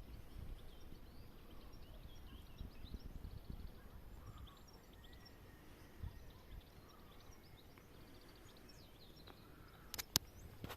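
Faint outdoor ambience of small birds chirping, many short calls, over a low rumble that is heavier in the first few seconds. Two sharp clicks near the end are the loudest sounds.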